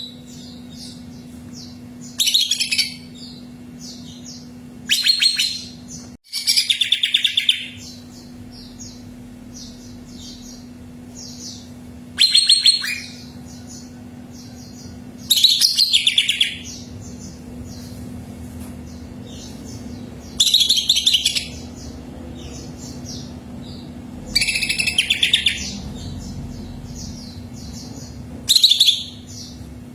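Cucak ijo (green leafbird) singing: loud, high bursts of song about every three to five seconds, with faint quick chirps in between. A steady low hum runs underneath.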